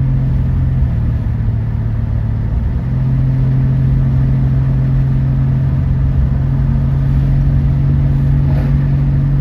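Car engine running under way with a steady low drone; its pitch eases down slightly about a second in and steps back up about three seconds in.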